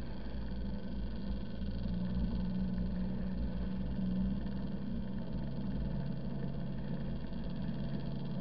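A car's engine and running noise: a steady low hum with a low rumble as it drives slowly over soft, rutted sand.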